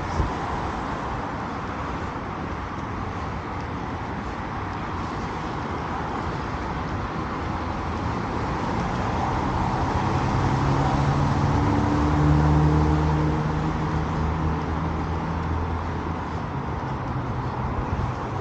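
Street traffic noise, with a motor vehicle's engine growing louder and then fading about halfway through as it passes close by.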